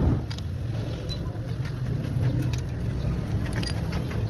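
Motorcycle engine running steadily with a low rumble, with a few faint clicks over it.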